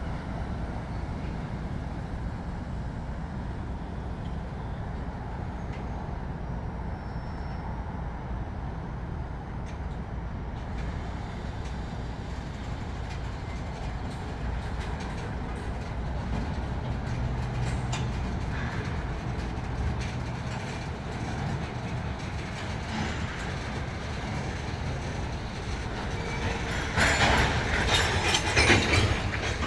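Miniature live-steam railway train running on its track with a steady low rumble, and a louder burst of noise near the end.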